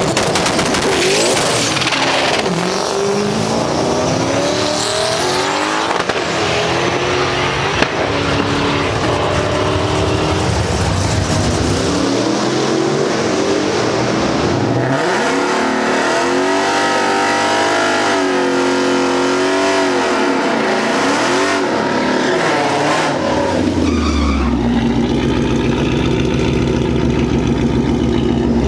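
Car engine revving and running under throttle, its pitch rising and falling over and over. A deeper, heavier engine drone takes over about 24 seconds in.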